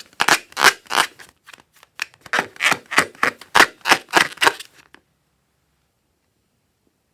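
Slime being pressed and worked, giving a quick irregular run of sharp pops and snaps at about three to four a second, with a short pause after about a second. The sound cuts off abruptly just before five seconds, and the last two seconds are silent.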